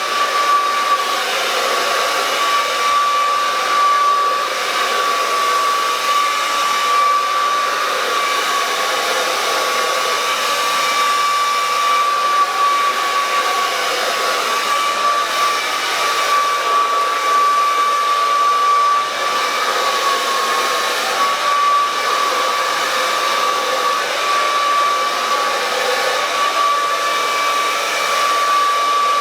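Handheld hair dryer blowing steadily, a rushing airflow with a steady motor whine, its loudness wavering slightly as it moves through thick hair.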